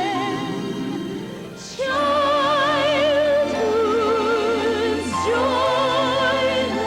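A female soprano singing long, high held notes with a wide, even vibrato over sustained accompaniment. The voice drops out briefly about a second and a half in, then comes back louder on a new phrase.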